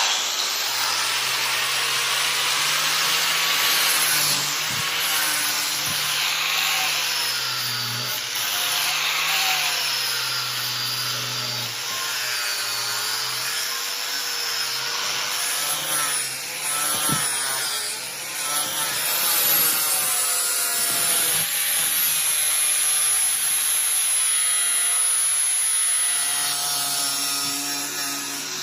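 Power tool cutting or grinding steel, likely from the bearing being turned into the blade. It runs continuously with a whine that rises and falls as the load on the tool changes.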